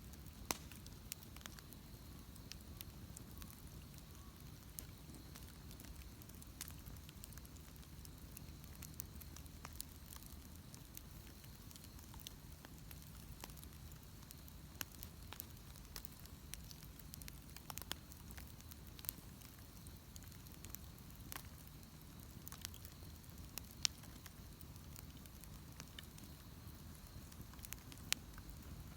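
Wood bonfire crackling: irregular sharp pops and snaps over a faint low rumble, with a few louder pops in the second half.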